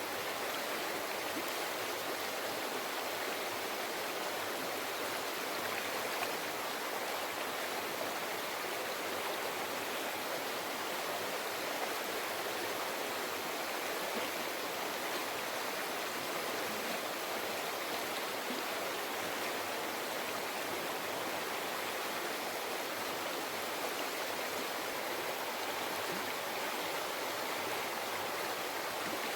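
Mountain forest river flowing: a steady, even rush of running water.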